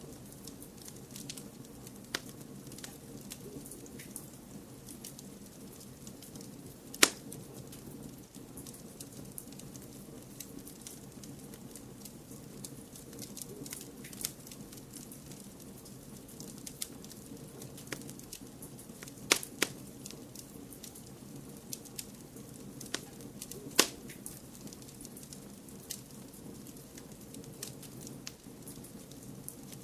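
Wood fire crackling in a fireplace: a steady low hiss of burning with constant small crackles, and a few sharp loud pops, one about 7 seconds in, two close together near 19 seconds, and one near 24 seconds.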